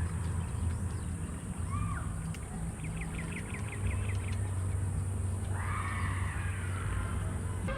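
Animal calls: a quick run of short chirps around three seconds in, then one longer call near the end, over a steady low hum.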